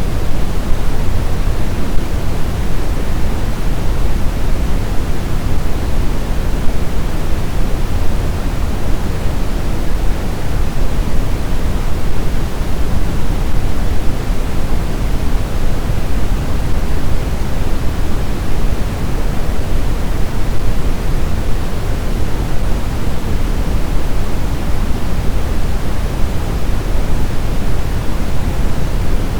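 Steady snowstorm wind noise: an even, dense rush heaviest in the low end, with no gusts or howling.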